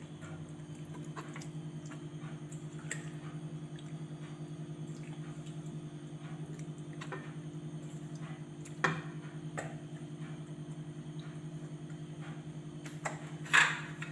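A steady low hum with a quick flutter in its loudness, with scattered light clicks and a sharper tap about nine seconds in.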